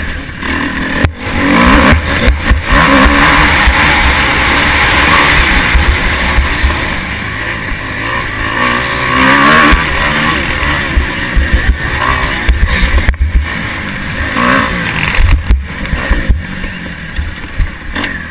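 Motocross bike engine revving up and down hard as it accelerates and backs off, with constant rushing noise and a few sharp knocks.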